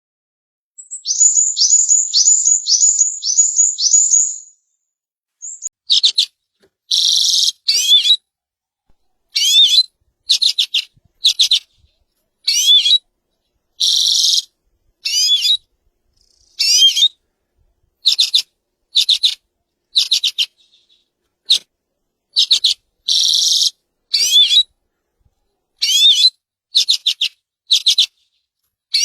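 A small songbird singing: first a quick run of high, falling notes, then short high chirping phrases of rising notes, repeated about once a second with silence between.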